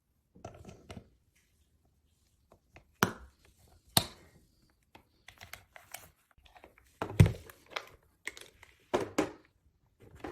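A scattered series of sharp clicks and knocks, a dozen or so, loudest about three, four and seven seconds in, with silence between them.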